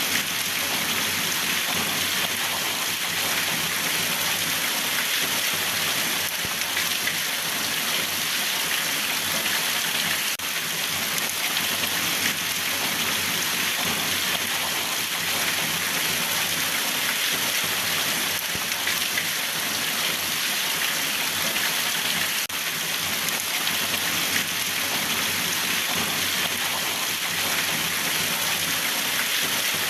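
Steady rain falling, an even hiss of drops on surfaces that does not change.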